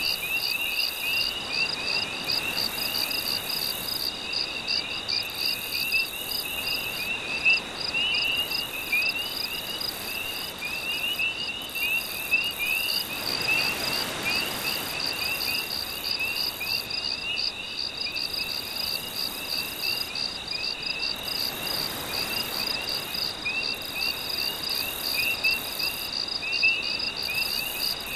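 Night chorus of insects and frogs: a steady high-pitched trill with rapid, continuous chirping. Beneath it is a soft wash of gentle sea waves that swells about halfway through and again about three quarters in.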